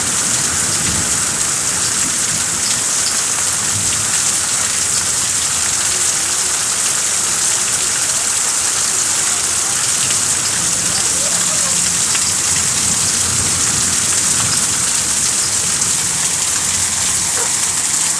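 Heavy rain falling steadily, an even unbroken hiss of a downpour.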